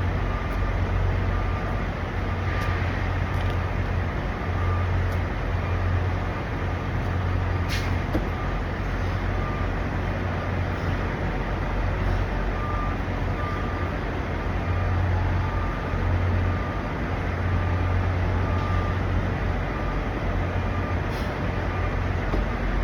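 Diesel truck engines idling, a steady low rumble that swells and eases, with one sharp click about eight seconds in.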